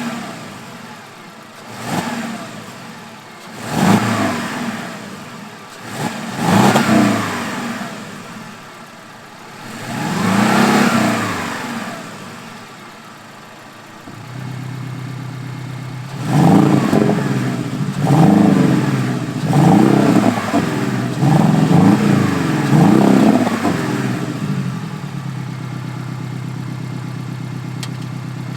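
Porsche 718 Cayman T's 2.0-litre turbocharged flat-four, breathing through an aftermarket active exhaust, revved in a series of short blips, each rising and falling. About halfway through it settles into a steady idle, then gets about five quicker blips in a row before idling again.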